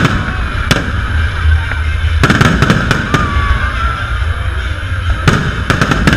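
Aerial fireworks display, shells bursting with sharp bangs. A quick run of bursts comes about two seconds in and another near the end, over a steady low rumble.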